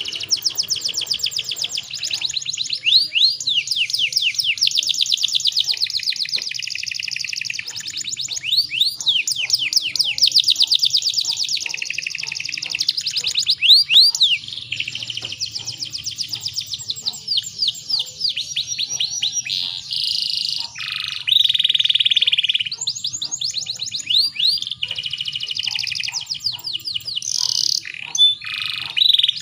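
Domestic canary singing one long, unbroken song of rapid trills and rolling repeated notes, with a couple of harsher, buzzier phrases about twenty seconds in and near the end.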